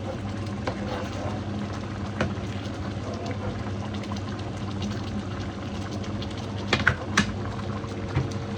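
Pot of fish stew simmering, bubbling with scattered small ticks over a low steady hum. A few sharper clicks come near the end.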